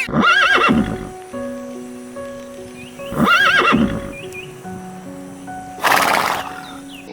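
A farm animal calls twice, each a loud call of about a second with a wavering, arching pitch, the first at the start and the second about three seconds in; a short rough burst follows about six seconds in. Background music with held notes plays throughout.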